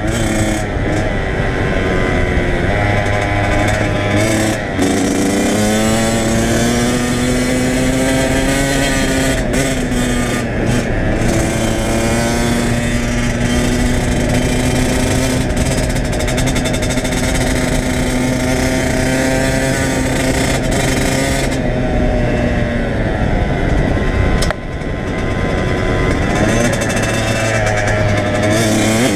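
Kawasaki KX100 two-stroke dirt bike engine being ridden, its pitch rising and falling with the throttle, holding steady through a long middle stretch, then dropping sharply and climbing again near the end.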